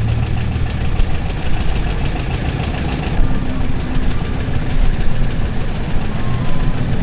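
An engine running steadily at idle, with a rapid, even beat.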